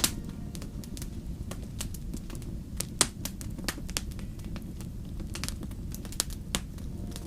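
Wood fire crackling in a fireplace: irregular sharp pops and snaps over a low, steady rumble of the burning logs, the loudest pop about three seconds in.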